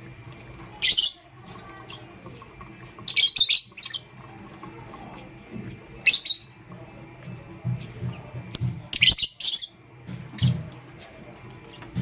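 Lovebirds chirping: short, sharp, high chirps in quick clusters every two to three seconds.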